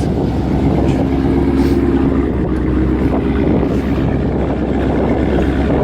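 A car engine running steadily and loudly, with no revving.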